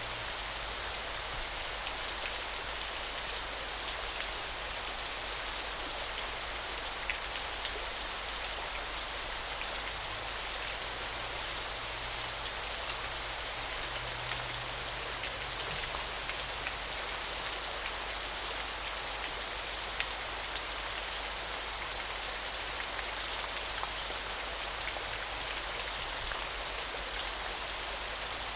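Steady rush of river water running. From about halfway, a thin, high trill comes and goes in stretches of a second or two.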